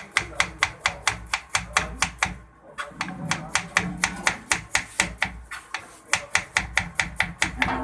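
Fast, steady chopping of food, about six sharp strikes a second, with a brief break near the middle.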